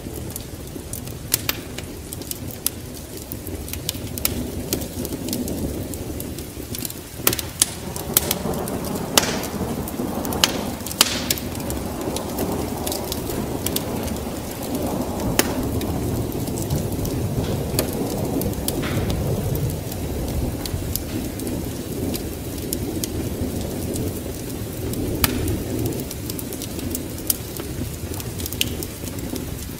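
Wood fire crackling in a fireplace, with sharp pops scattered through, over a steady low rumble of rain and thunder that swells a little in the middle.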